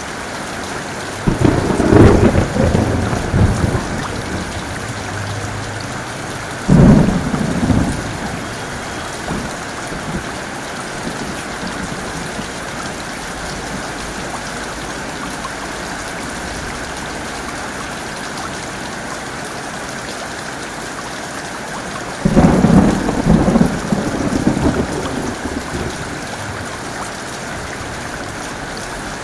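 Heavy rain falling steadily, with three claps of thunder that start suddenly and rumble away: one shortly after the start, a shorter one about seven seconds in, and a longer one a little over twenty seconds in.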